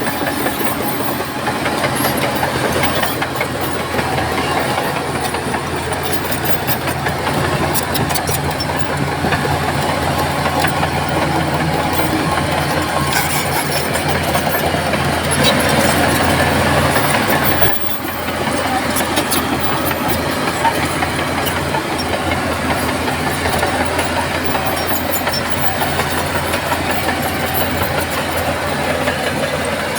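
Heavy diesel earthmoving machinery running steadily, with scattered clicks and clanks. It grows louder a little past the middle and drops off abruptly a few seconds later, then carries on.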